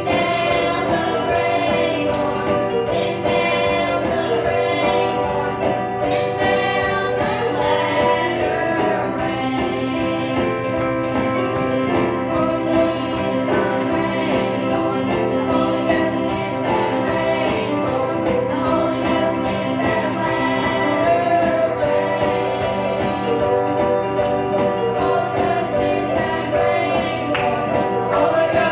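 Children's choir singing a gospel song with instrumental accompaniment and a steady beat.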